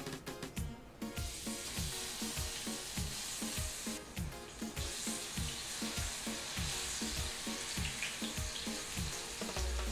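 Plantain slices sizzling as they are laid into shallow hot oil in a stainless steel frying pan; the hiss of the frying sets in about a second in and keeps on.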